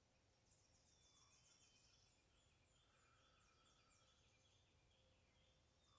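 Near silence: faint outdoor ambience with distant small birds singing, in runs of rapid, short, high chirps lasting a second or more each.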